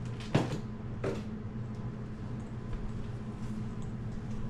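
Frozen food packages being handled into a storage bin: a sharp knock just under half a second in and a softer one about a second in, over a steady low hum.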